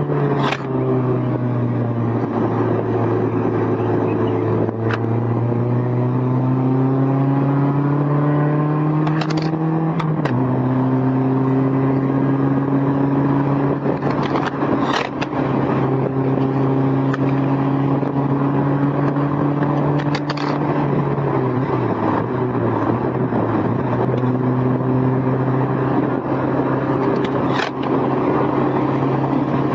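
Honda S2000's four-cylinder engine pulling at moderate revs with the top down. The pitch climbs slowly and drops sharply at a gear change about a third of the way in, then again around two-thirds of the way through. A few sharp clicks come from the recorder rattling loose on the passenger seat.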